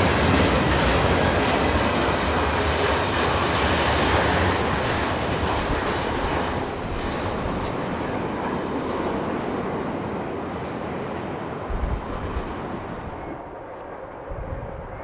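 Freight train wagons rolling past on the rail, wheels clattering over the joints, the noise fading away after about five seconds as the end of the train moves off.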